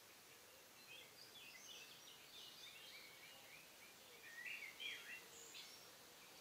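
Faint birdsong: short chirps and twittering phrases, loudest a little before the end, over a quiet outdoor hiss.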